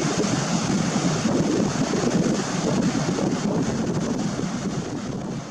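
Wind buffeting the camera's microphone, with waves washing on the shore underneath. The buffeting eases off near the end.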